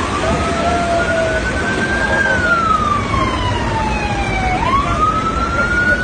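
Emergency vehicle siren on a slow wail: it rises for about two seconds, falls for a couple more, then snaps back up about four and a half seconds in and rises again. It sounds over a loud, steady rushing noise.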